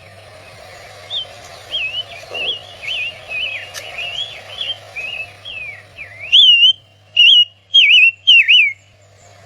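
A small songbird singing a quick run of whistled, warbling notes, then four louder phrases near the end.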